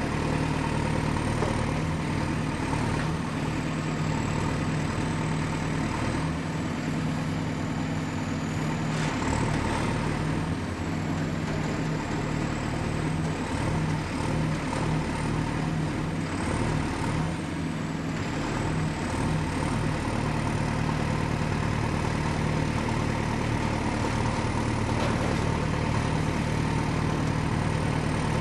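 Excavator's diesel engine running steadily, with a thin high whine that dips in pitch and climbs back twice.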